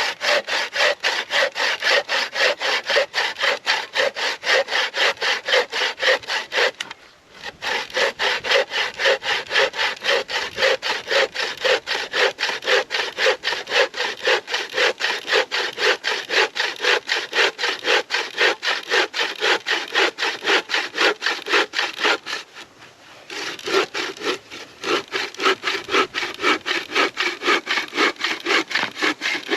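A hand saw cutting through wood in quick, even back-and-forth strokes, pausing briefly twice.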